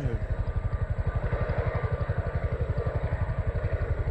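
Twin-rotor helicopter running close by: a rapid, steady low beating of the rotor blades, many beats a second, with a rushing engine and air noise that swells in the middle.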